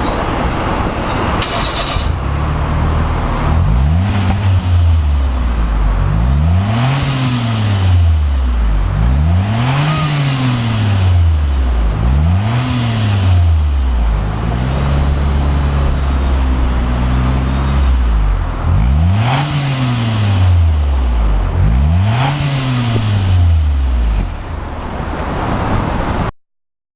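Daihatsu Move Custom Turbo's 660 cc turbocharged three-cylinder engine breathing through a Kakimoto GT box 06&S aftermarket muffler. It idles, is revved and let fall back about seven times with one rev held longer, then returns to idle.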